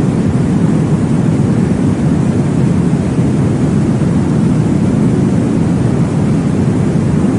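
Steady, deep whooshing noise, heaviest in the low range with little high hiss and no breaks: a baby-sleep white-noise track meant to mimic the whoosh of blood flow in the womb.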